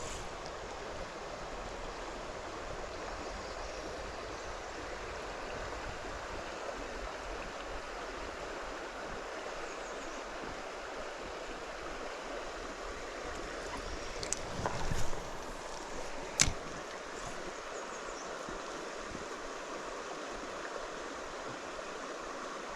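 Creek water flowing steadily over rocks, an even rushing hiss. A few short sharp clicks or knocks break in about two-thirds of the way through, the loudest a single sharp click.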